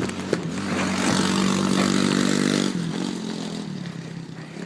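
Dirt bike engine running hard: its note swells about a second in, holds steady, then drops back and fades.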